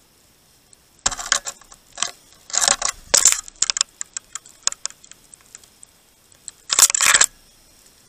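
Great tit right at the camera, making sharp clicks and scratchy rustles close on the microphone: a cluster starting about a second in and lasting a few seconds, then another short burst near the end.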